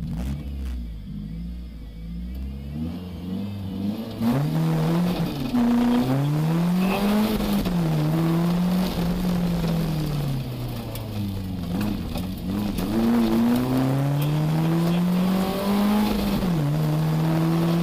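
Rally car engine heard from inside the cabin, pulling away and accelerating hard, its pitch climbing and dropping back with each gear change. It eases off for a couple of seconds past the middle, then builds again.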